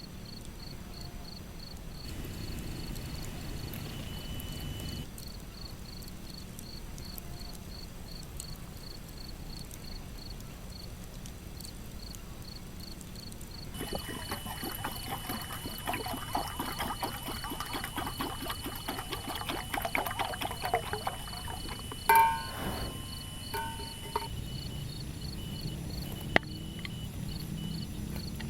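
Insects chirping in an even, steady pulse, a few chirps a second. About halfway through, several seconds of dense crackling and rustling start, and they end in a sharp clink with a short ring.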